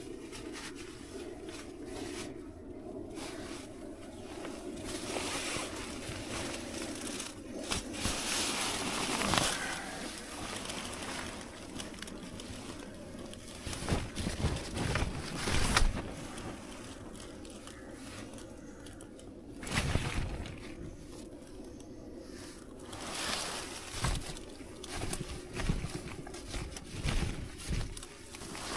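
Irregular rustling and bumping handling noises in several bursts, the loudest near the middle, over a steady low background hum.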